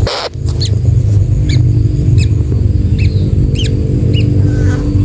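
Short high bird cheeps, about two a second, over a loud steady low hum. A brief burst of noise comes right at the start.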